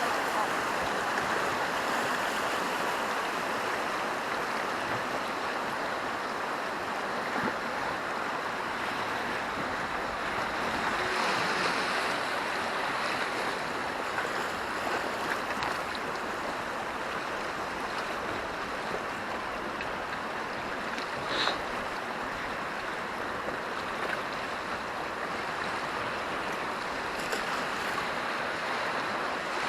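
Steady rush of river water around a raft on a whitewater river, with one short sharper sound about two-thirds of the way through.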